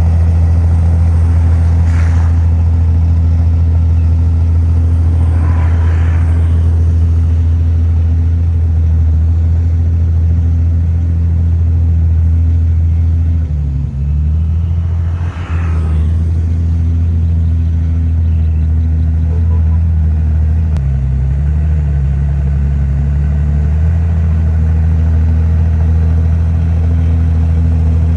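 Heavy diesel engine of a bulldozer running steadily under work. Its note dips and wavers twice as the load changes, and a few short metallic clanks come through.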